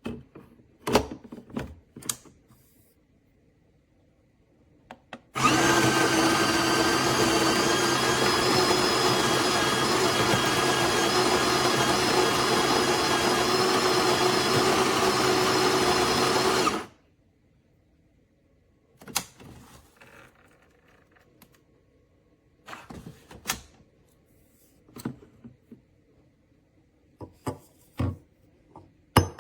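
Built-in burr grinder of a De'Longhi La Specialista espresso machine grinding beans: a steady motor whir for about eleven seconds that starts and cuts off abruptly. A few clicks and knocks of handling come before and after it.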